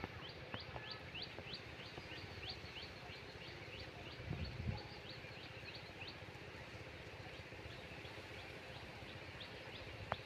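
A bird calling in a rapid series of short, high chirps, about three or four a second, that grow sparser toward the end, over steady outdoor background noise. A brief low rumble about four and a half seconds in.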